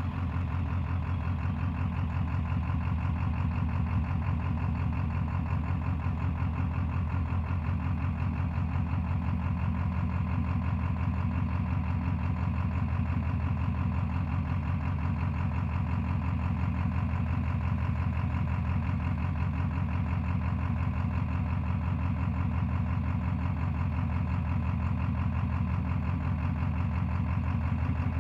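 Ford 7.3 Power Stroke V8 turbodiesel idling steadily, in an engine the owner reports as misfiring.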